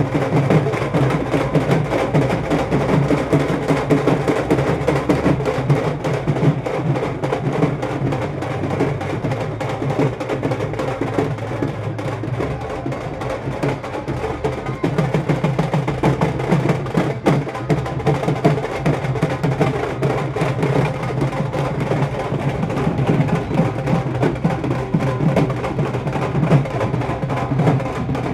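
Drums played fast and steadily, with music, throughout.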